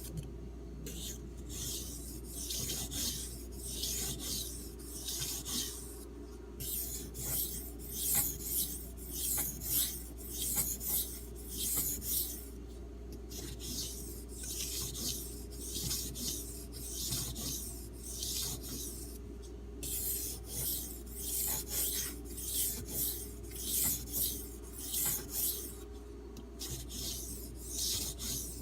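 Steel knife blade (D2) stroked back and forth on a wet, muddy 3000-grit Arkansas water stone: a rhythmic scraping rasp, about one to two strokes a second, broken by brief pauses every six or seven seconds.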